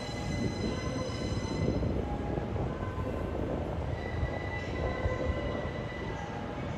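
Electric passenger train moving along the tracks: a steady rumble of wheels on rails, with a high whine in the first couple of seconds and again faintly about four seconds in.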